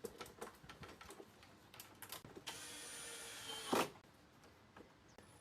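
Faint clicks and handling of parts, then a small motor whirring steadily for about a second and a half, ending in a sharp clunk.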